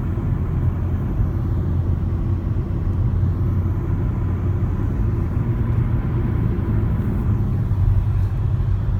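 Steady low rumble of a car driving along a highway, heard from inside the cabin: tyre and engine noise.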